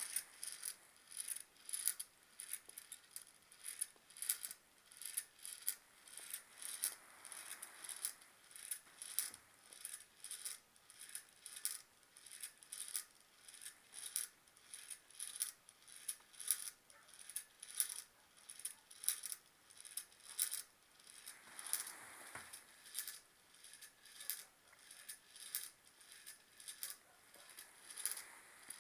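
Small Stirling engine running, its moving parts clicking in a steady rhythm of about two to three sharp clicks a second.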